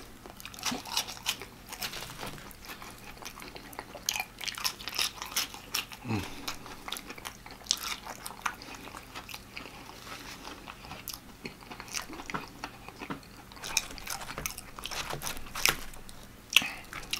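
Close-miked chewing and crunching of cheese-dipped fries and fried chicken, with many small crackles and wet mouth sounds. A short low hum about six seconds in.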